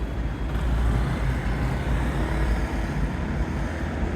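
City street traffic noise: a steady low rumble of passing cars and buses.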